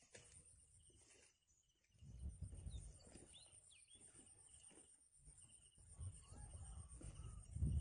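Faint wetland ambience: steady insect chirring, a few short high bird chirps a few seconds in, and a low rumble of wind or handling noise.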